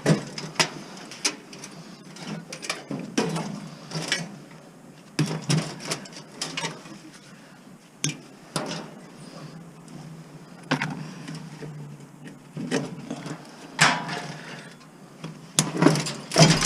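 Irregular clanks, knocks and rattles of a gas stove's sheet-metal parts being handled as the stove is taken apart for scrap.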